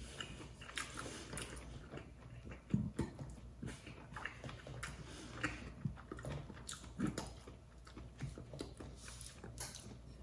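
A man chewing a mouthful of stir-fried pork and eggplant, with scattered light clicks of chopsticks against a metal pan.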